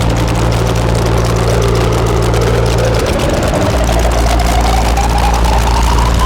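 Distorted modular-synthesizer drone: a low, buzzing hum under a crackling noise wash, with a tone that slowly rises in pitch. The low hum drops out for a moment about three seconds in, then returns.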